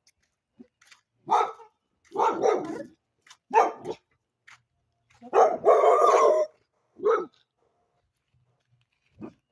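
Dogs barking in about six separate bursts with short pauses between them, the longest burst near the middle.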